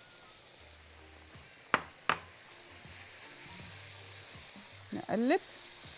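Chopped onion and diced liver frying in oil in a wok, sizzling as a silicone spatula stirs them, with two sharp knocks of the spatula against the pan about two seconds in. The sizzle grows louder about halfway through.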